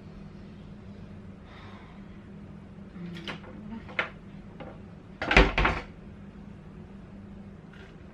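Kitchen cabinet being handled: a few sharp knocks, then a louder cluster of knocks about five seconds in, as of a cabinet door shutting.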